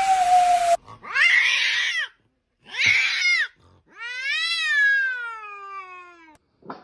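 Domestic cat meowing loudly three times, the last meow long and drawn out, rising in pitch and then falling.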